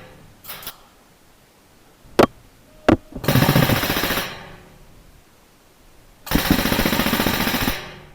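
HPA airsoft gun firing two bursts of full-auto fire, each a little over a second long, with two sharp clicks just before the first burst.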